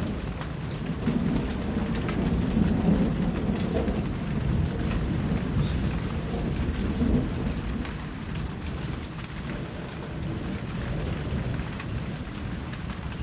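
Steady rain falling, with low thunder rumbling that swells about a second in and again near the middle.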